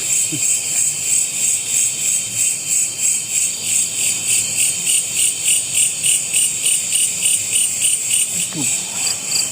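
Chorus of night insects trilling in a high, steady drone that pulses evenly at about two to three beats a second.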